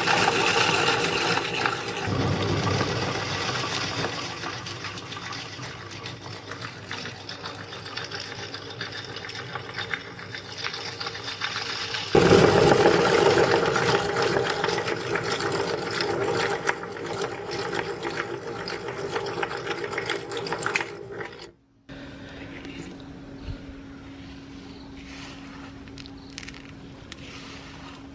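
Meat grinder running while crushing crystal sugar candy: a loud, dense grinding and crunching that surges about twelve seconds in. Just after twenty seconds it cuts off abruptly, and a quieter steady hum with light crackling follows.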